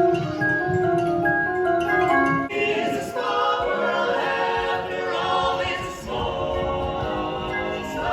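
Barbershop-style a cappella male vocal group singing in close harmony.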